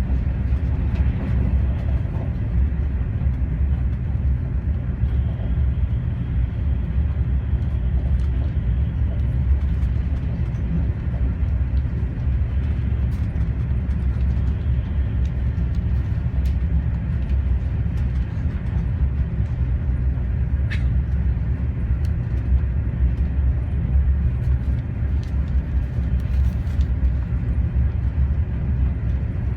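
Steady low rumble of a Renfe AVE high-speed train running at speed, heard inside the passenger cabin, with a few faint ticks.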